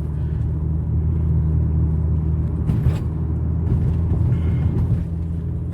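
Audi wagon's engine and road noise droning steadily at a cruise, heard from inside the cabin, with a couple of faint knocks about three seconds in.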